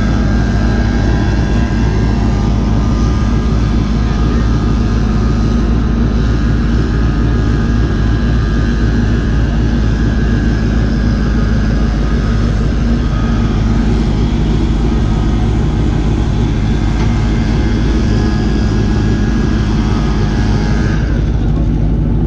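Pontiac G8 sedan's engine idling as the car creeps forward: a steady, even low drone.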